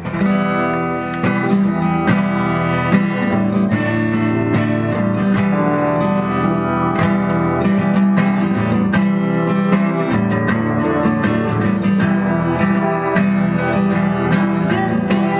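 Worship-song music led by a strummed acoustic guitar, playing the instrumental introduction before the singing; it starts abruptly right at the beginning and continues steadily.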